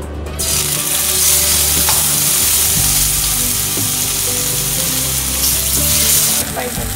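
Halved onions searing cut-side down in hot oil in a frying pan, sizzling steadily from about half a second in as the first half goes into the pan; the sizzle browns the cut faces.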